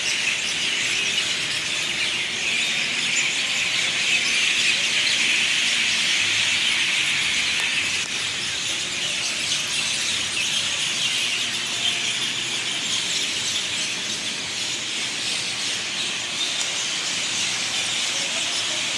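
A dense chorus of many birds chirping and chattering at once, a steady high-pitched din.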